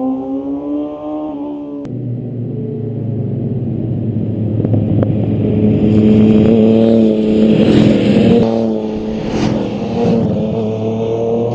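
Motorcycle engines revving and riding past, pitch rising and falling with the throttle. There is an abrupt change about two seconds in. A louder pass peaks in the middle, followed by a couple of quick swells near the end.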